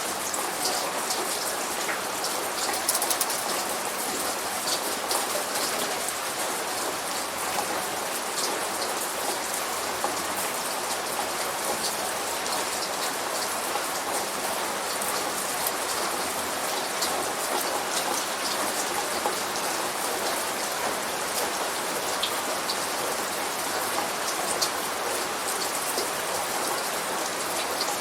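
Steady light rain, with many separate drops ticking sharply through the even hiss.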